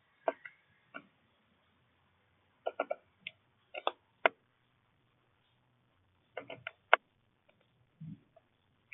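Irregular sharp taps and clicks of small birds pecking and landing on a bird feeder. They come singly and in short clusters, with a duller thud near the end.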